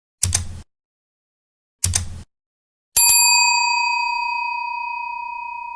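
Outro sound effect: two short thumping clicks about a second and a half apart, then a single bright bell ding about three seconds in that rings on, slowly fading.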